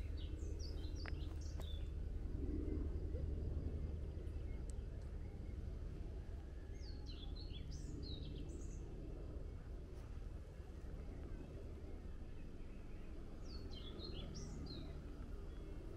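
A songbird repeats a short phrase of quick, high, falling notes three times, about every seven seconds, over a steady low background rumble.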